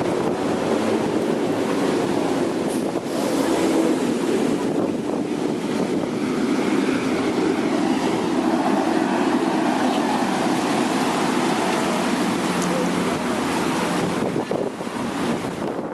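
Ocean surf breaking and washing onto a sandy beach, with strong gusty wind buffeting the microphone. The sound is a steady, dense rush with no pauses.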